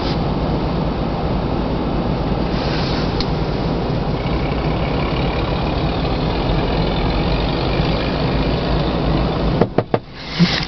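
Motor vehicle engine running steadily, a low rumble. Near the end the engine noise drops away suddenly and a few sharp clicks or knocks follow.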